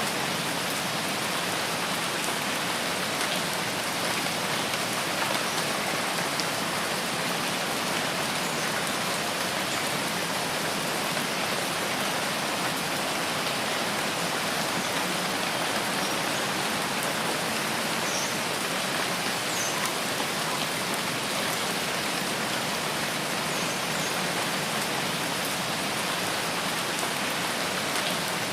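Steady rainforest rain, an even hiss of falling drops that keeps on without let-up.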